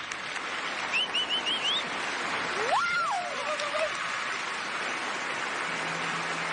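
Audience applauding steadily, with a few short high whistles about a second in and a single cheer around three seconds.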